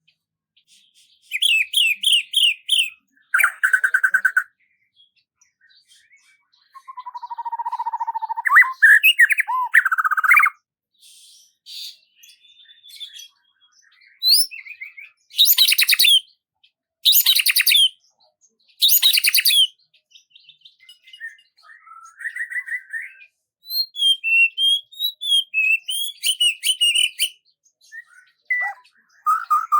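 Songbird song: short chirps and trilled phrases with pauses between them, and three loud rapid high trills in the middle.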